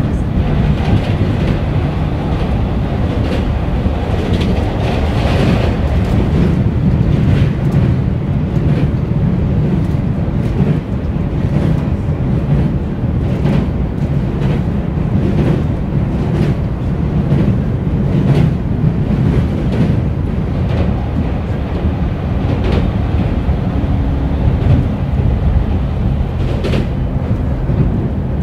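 Shonan-Shinjuku Line electric train running at speed, heard from inside the car: a steady rumble of wheels on rail, with sharp clacks over rail joints every second or two.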